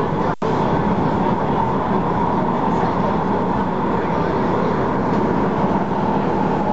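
MTR Tung Chung Line A-Train running at speed, heard from on board: a steady rolling rumble with a constant hum, broken by a momentary dropout about half a second in.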